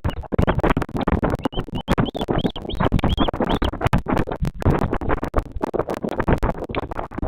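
Loud, dense crackling and scratching on the nest camera's microphone, with a run of short, high, arched chirps in the middle.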